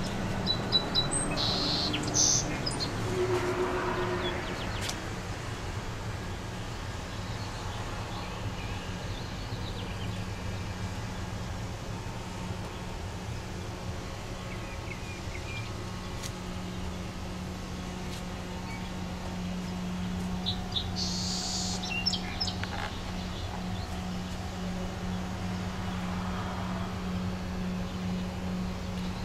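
Birds chirping now and then: short high calls a second or two in and again around twenty seconds in, over a steady low hum.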